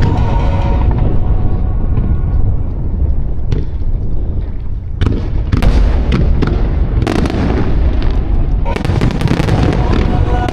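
A dense barrage of fireworks: continuous deep booms of aerial shells bursting, with sharp cracks about 3.5, 5 and 7 seconds in. Pop music with singing plays over loudspeakers, heard at the start and again from about 9 seconds in.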